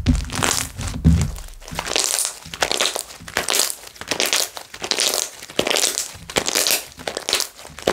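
Slime being squeezed and pressed by hand, with repeated bursts of crackling and popping from air bubbles, about one or two squeezes a second. A low thud comes twice in the first second or so.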